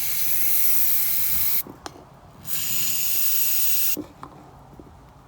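Aerosol cleaner spray hissing onto carburetor parts in two bursts: one of about two seconds, and a shorter one of about a second and a half after a short pause, followed by a few small clicks.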